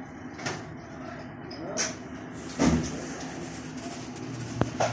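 Chainsaw being pull-started: two quick pulls of the starter rope with clicks and knocks, the second the loudest, then a low steady hum near the end.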